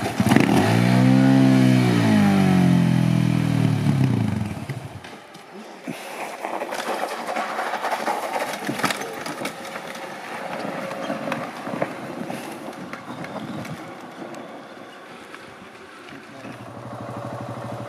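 Adventure motorcycle engine revving hard as a rider powers up a steep rocky track, its pitch rising and then falling over the first four seconds. After that the engine is fainter, with scattered knocks and crunches for the rest.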